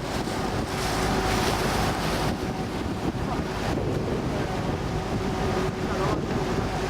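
Motorboat engine running at a steady pitch, with water rushing along the hull and wind buffeting the microphone.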